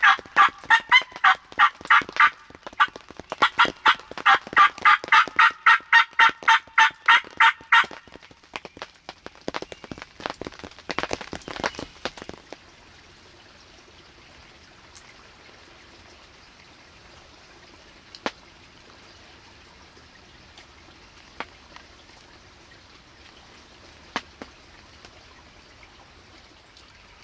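Turkey call worked by the hunter in two long, fast runs of yelps, about four to five notes a second, followed by a few softer scratchy strokes. After about twelve seconds only steady rain remains, with a few single clicks.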